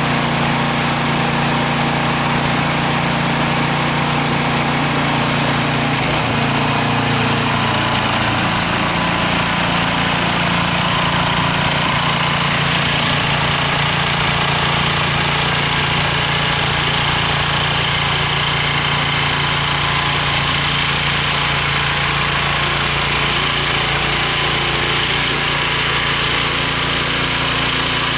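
Three-stage snow blower's engine running steadily. Its note shifts a little lower about seven seconds in.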